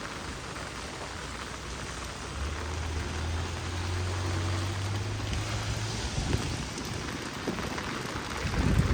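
Heavy rain falling steadily. A low steady hum comes in about two seconds in and fades away a few seconds later, and a few low thumps come near the end.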